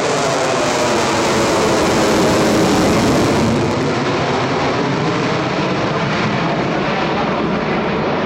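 Fighter jet engine roaring as the jet passes the crowd, with a sweeping, phasing quality. It is loudest two to three seconds in, then turns duller as the jet moves away.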